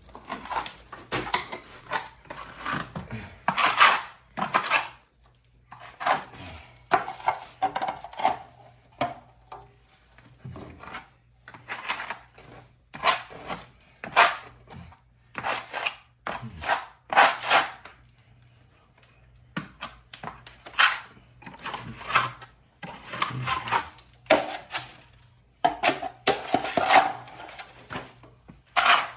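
Plastering knife scraping and tapping as setting-type joint compound (hot mud) is scooped and packed into deep holes in an old plaster wall: irregular strokes about once a second, with a short pause about two-thirds of the way through.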